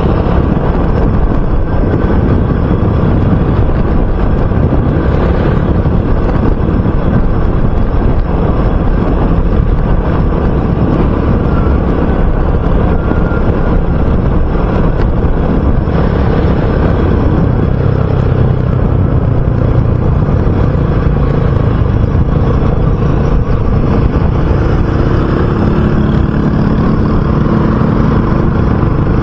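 RUSI Classic 250 motorcycle engine running on the move, over steady road and wind noise. The engine note stays even, then settles to a lower pitch in the last few seconds.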